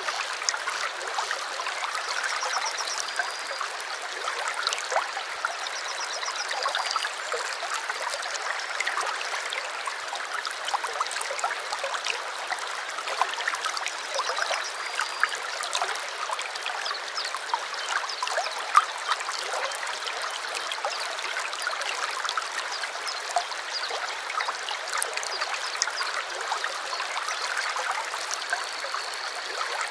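Small stream trickling and babbling steadily. A bird gives short high chirping phrases a few times, the longest near the end.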